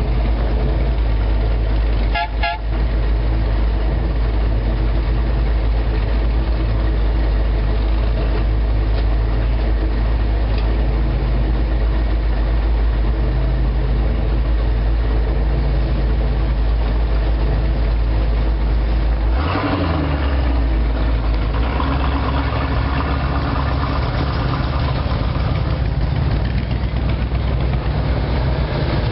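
Hot rod and classic car engines idling and rumbling as the cars roll slowly past in a line, a steady loud low rumble. A short car-horn toot about two seconds in, and about two-thirds of the way through, a nearer engine grows louder as it passes.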